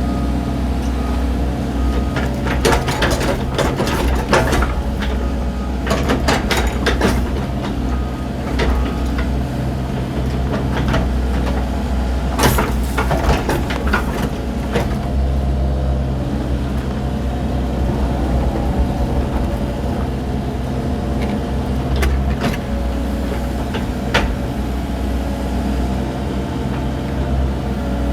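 Cat excavator's diesel engine running steadily while the machine works dirt, with bursts of scraping knocks from the bucket a few seconds in, around the middle, and twice more near the end.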